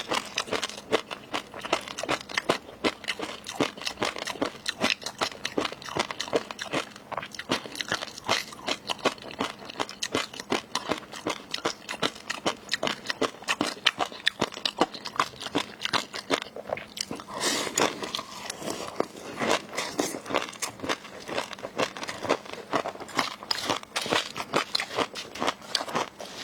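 Close-miked eating: rapid, crisp crunching, biting and chewing of raw seafood, with sharp crackles several times a second.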